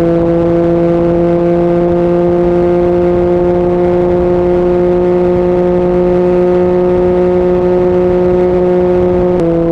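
Yamaha MT-09 three-cylinder engine with an Akrapovic exhaust, running at steady revs under way as a loud, even drone. Its pitch creeps slightly higher, then drops a step near the end.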